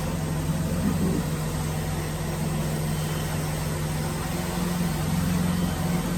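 Woodworking drilling machine running with a steady motor hum.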